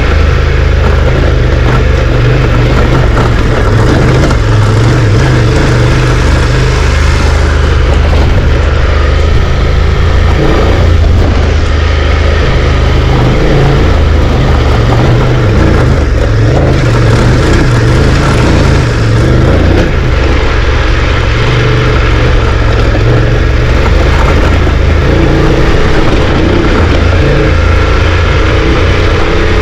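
Car being driven, engine running steadily with loud road noise throughout; it has a quiet exhaust note.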